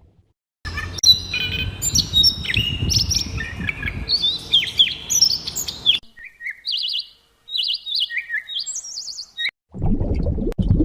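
Small songbirds chirping and calling, several voices overlapping over a low background rumble for about five seconds, then a run of short, separate high chirps on their own. A different low noisy sound cuts in near the end.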